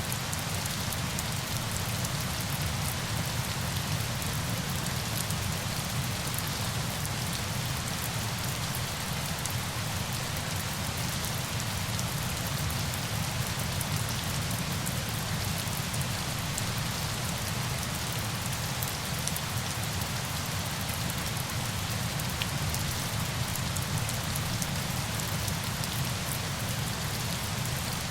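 Steady rain, an even hiss with a low rumble beneath and many fine drop ticks, holding level without a break.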